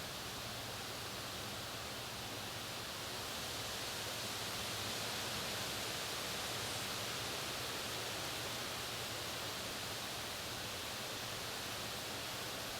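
Steady, even hiss of outdoor background noise with no distinct calls or other events, swelling slightly around the middle.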